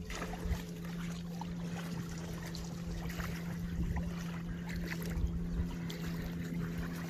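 Small splashes and trickling of river water around a kayak, over a steady low hum.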